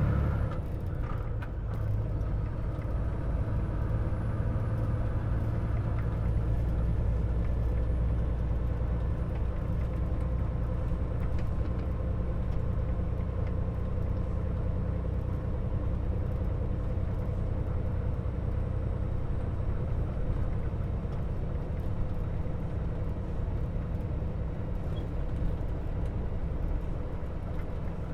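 Semi truck's diesel engine running steadily as the truck drives along the road, a constant low hum.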